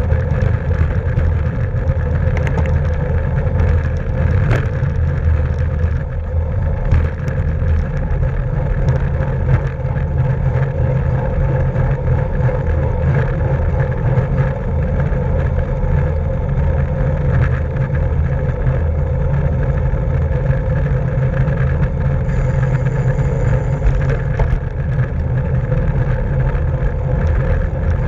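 Steady rush of wind on the microphone and road noise from a bicycle riding at race speed, with a dense low rumble that holds throughout.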